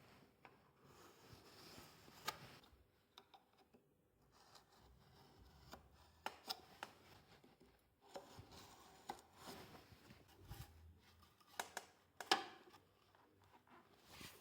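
Faint, scattered knocks and clicks of firewood and tools being handled, with one sharper knock near the end.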